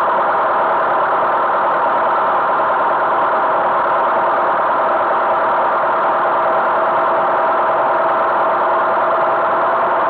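Tractor engine running steadily at constant speed, with an even drone and no change in pitch.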